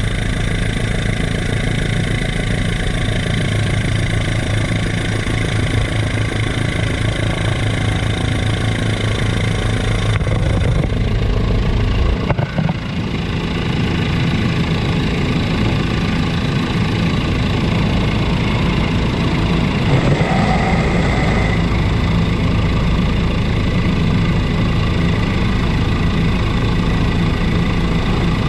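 Helicopter in flight, its rotor and engine a steady, loud drone. The tone shifts about twelve seconds in.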